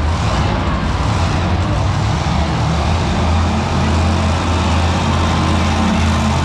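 Mega X monster truck's engine running loud, holding a steady note.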